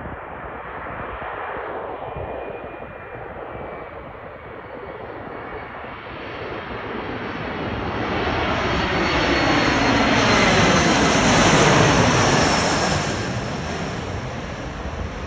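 Embraer E175 regional jet's twin turbofan engines on landing approach, passing by. The engine noise grows steadily to its loudest about twelve seconds in, with a high whine and a sweep that falls in pitch as it goes past, then fades.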